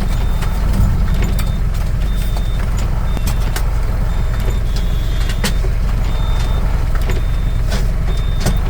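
LPG tanker truck's engine running, a steady low rumble heard from inside the cab. A short high beep repeats irregularly about once or twice a second, with scattered sharp taps over it.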